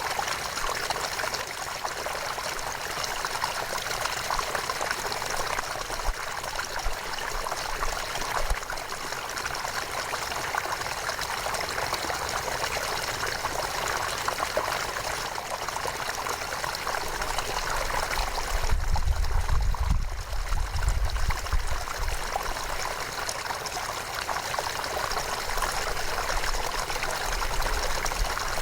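A river flowing steadily, a continuous rushing and trickling of water. About two-thirds of the way through, a deep low rumble rises over the water for about three seconds.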